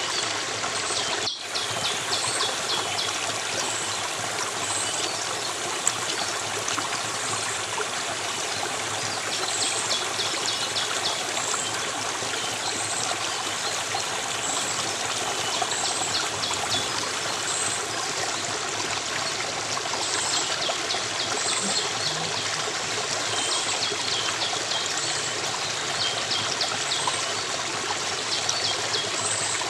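A stream of water flowing steadily, with faint high chirps repeating every second or two over the rushing water. There is a brief dropout about a second in.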